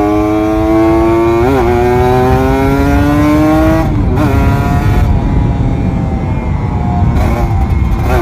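Kawasaki Ninja RR 150's two-stroke single-cylinder engine, heard from on the bike while riding. Its note climbs slowly under acceleration, with brief breaks about a second and a half in, around four seconds and near the end. Wind rushes over the microphone throughout.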